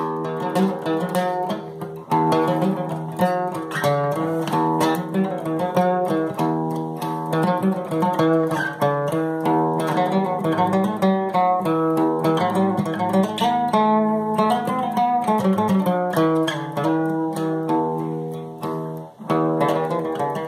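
Solo guitar picking a lively melody, note after note, over ringing low bass notes, with a brief break near the end before the tune picks up again.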